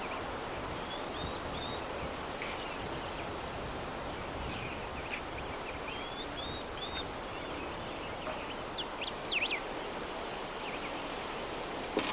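Steady soft breeze, with small birds chirping now and then: short runs of chirps about a second in and around six seconds, and a few quick sweeping calls around nine seconds.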